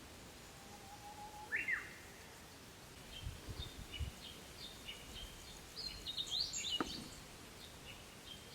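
Wild birds singing: a held whistled note followed by a quick high phrase, then a run of short, high chirps from several birds, loudest a little past the middle.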